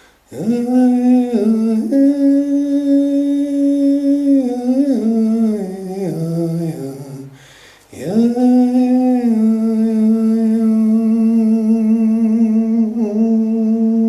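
A voice humming long held notes inside a sound chamber that rings with the room's resonance. A first sustained tone steps in pitch a few times, breaks off about seven seconds in, and is followed by a second long, steady tone.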